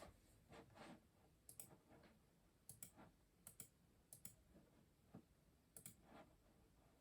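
Custom mechanical keyboard keys being typed slowly and faintly. Scattered single keystroke clicks, often in close pairs, come about once or twice a second with pauses between them.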